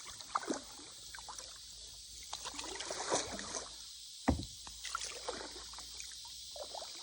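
Kayak on the water: paddle strokes splashing and water sloshing against the hull, with one sharp knock on the hull about four seconds in, over a steady high hiss.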